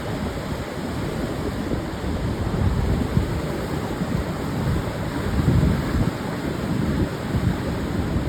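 Pacific surf breaking on a wide sandy beach: a continuous low wash of waves that swells and eases, with wind buffeting the microphone.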